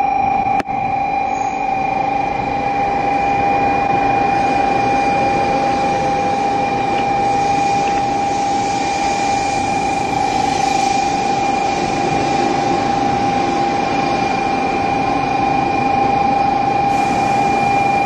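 Shinkansen bullet train pulling into the platform and slowing to a stop, a steady rushing noise with a constant high tone over it.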